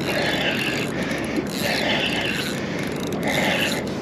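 Penn Slammer VI spinning reel being wound in a rasping, mechanical grind that swells three times, about a second and a half apart, as a hooked fish is retrieved.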